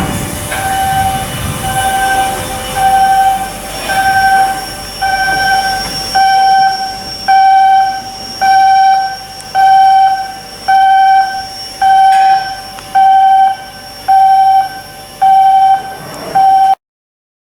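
Electronic warning beeper sounding a single steady pitch about once a second, each beep lasting roughly half a second, over faint shipyard machinery noise. It cuts off suddenly near the end.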